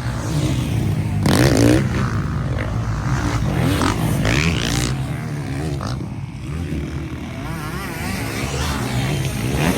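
Several motocross bike engines revving and easing off as they race past, their pitch rising and falling over and over, loudest about a second and a half in.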